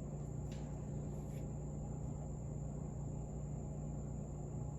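Steady low electrical hum with a thin constant high whine, and two faint light ticks about half a second in and again just after a second.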